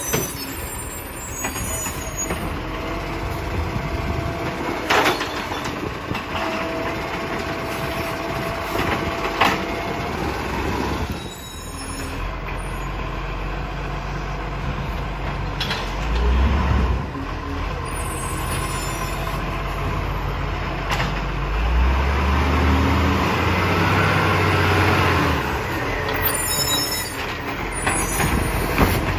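Side-loader garbage truck working a recycling round: the truck running with air-brake hisses and a few sharp knocks, and its low rumble swelling twice in the second half.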